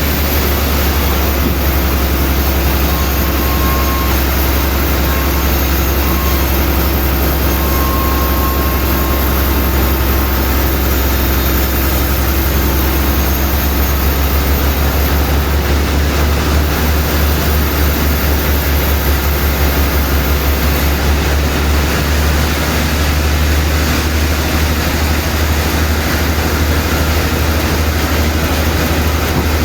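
Sawmill machinery running steadily: a loud, constant low hum over an even wash of mechanical noise.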